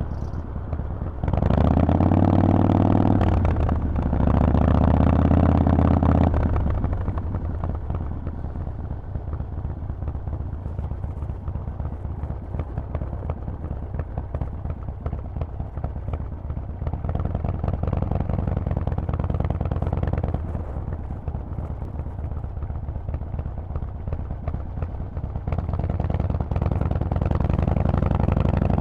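Harley-Davidson Forty-Eight's air-cooled V-twin running through a Vance & Hines exhaust while riding. About a second in it accelerates hard through a gear change, with rising pitch, a drop, then rising again. It then runs at lower steady revs, builds briefly partway through, and pulls up again near the end.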